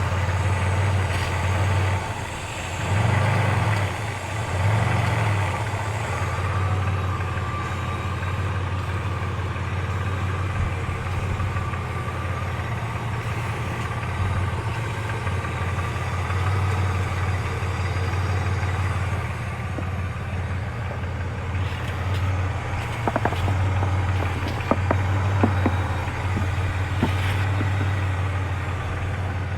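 2001 Chevrolet Malibu's 3.1-litre V6 idling, with the engine note dipping and swelling twice in the first few seconds and a few sharp ticks a little past the middle.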